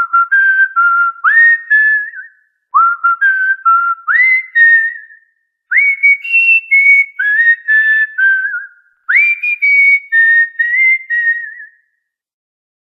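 A cockatiel whistling a short tune four times. Each phrase opens with a rising slide and then steps through a few clear held notes, the second phrase repeating the first and the fourth echoing the third.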